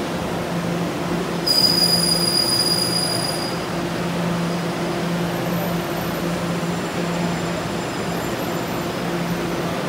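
Taroko Express tilting electric multiple unit pulling into a station, a steady electric motor hum over the rumble of the train. About one and a half seconds in, a high metallic squeal joins for about two seconds, the loudest part.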